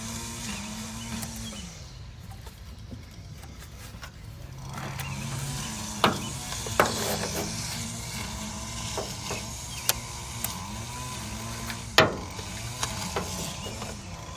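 Metal hand tools clinking and knocking on engine parts: a few sharp clinks, the loudest about six, ten and twelve seconds in. Under them runs a low, wavering motor hum.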